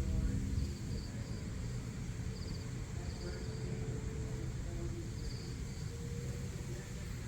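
Insects chirping in short, high trills every second or so, over a steady low outdoor rumble.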